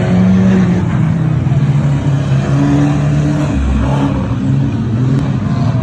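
Several 2-litre banger cars' engines revving together, their pitches shifting up and down unevenly, with a low thud about three and a half seconds in.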